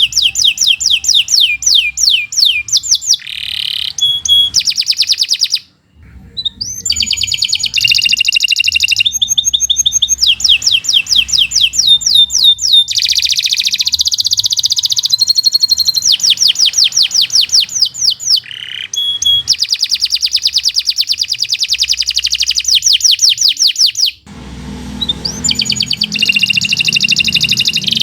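Domestic canary in full song: long runs of fast trills made of quickly repeated sweeping notes, switching from one trill to the next, with a short pause about six seconds in. A low hum joins in near the end.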